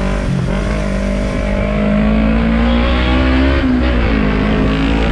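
Motor vehicle engines running in traffic, their pitch drifting up and down as one revs.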